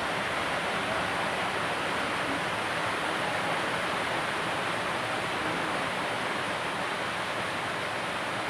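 Hot oil sizzling steadily as a whole chicken deep-fries, an even hiss with no breaks.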